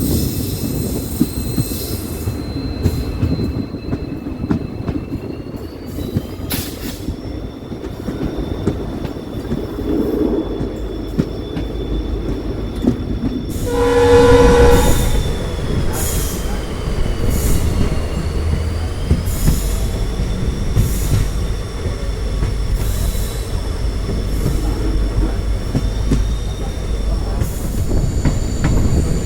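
Train running with a steady rumble of wheels on rails and a thin, high wheel squeal that rises and falls in pitch. The locomotive horn sounds once, for about a second and a half, about halfway through.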